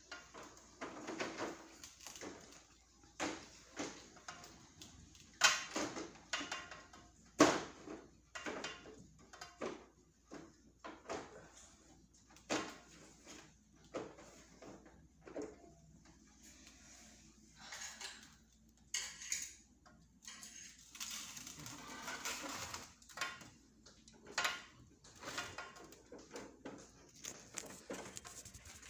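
Scattered clicks and knocks of a split-type air conditioner's parts being handled and fitted back together after cleaning, two sharper knocks standing out a few seconds in.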